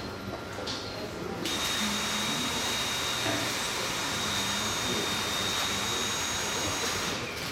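Dyson V8 cordless stick vacuum running: it switches on abruptly about a second and a half in, runs steadily with a thin high-pitched whine over a rushing airflow, and cuts off just before the end.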